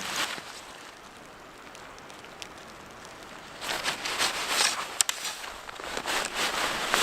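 Footsteps crunching in snow: a last step or two, a stretch of quiet hiss for about three seconds, then irregular crunching steps again.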